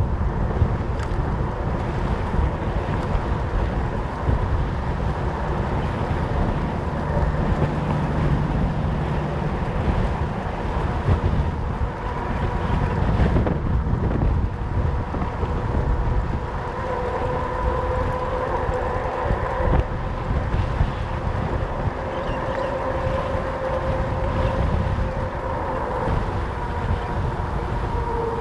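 Wind buffeting the microphone while riding a fat bike, with the hum of its 4.4-inch Schwalbe Jumbo Jim tyres rolling underneath, a faint drone that swells and fades in pitch with speed in the second half.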